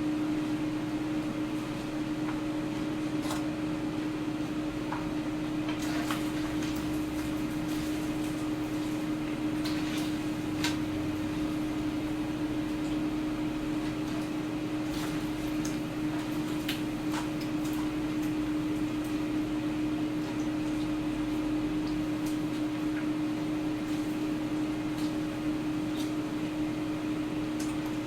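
Air fryer running: its fan motor hums at one steady pitch over an even rush of air, with faint ticks now and then.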